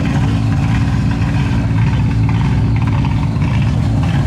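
Rally car engine idling steadily with a deep, even tone and no revving.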